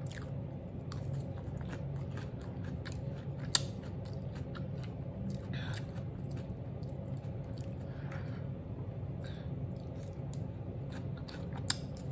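A person chewing food with her mouth closed: soft wet mouth clicks over a steady low hum, with one sharper click about three and a half seconds in.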